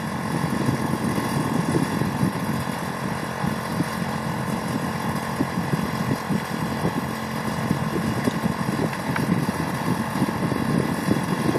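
Small engine, apparently a paramotor's, idling steadily before a foot launch.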